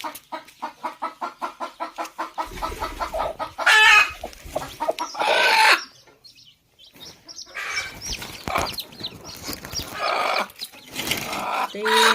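Hen clucking in a fast, even run of about five clucks a second, then breaking into louder, harsher calls about four and five seconds in. After a brief pause, irregular clucks and calls continue.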